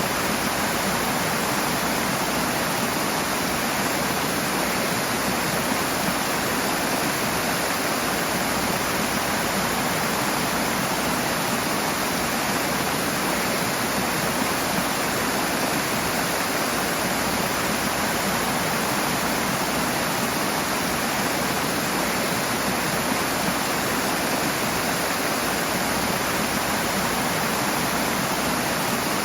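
Rushing water, a steady even roar of fast-flowing stream or cascade.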